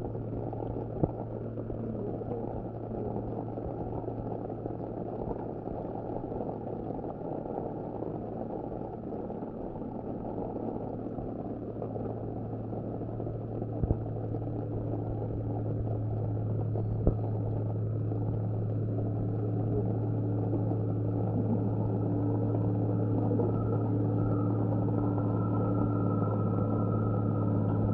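Mitsubishi Fuso truck's diesel engine running steadily under load on a steep climb, a low drone that grows gradually louder over the second half. Three short sharp knocks stand out above it.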